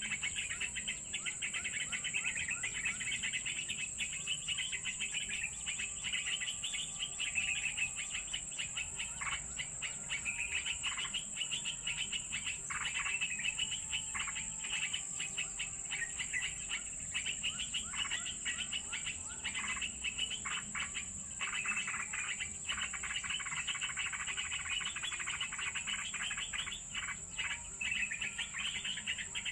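Birds chirping in rapid, dense runs of high notes, over a steady high-pitched insect drone.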